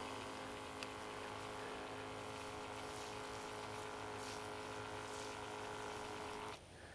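Small electric pump of a battery-powered sprayer running steadily while rinsing a headstone with water, cutting off suddenly near the end.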